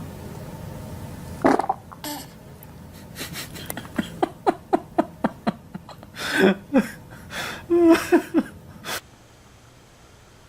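A baby's fart about a second and a half in, followed by a run of laughter in quick repeated bursts, two to three a second, which cuts off suddenly near the end.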